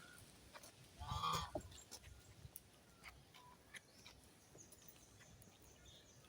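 A single harsh bird call about a second in, lasting about half a second, followed by faint scattered chirps.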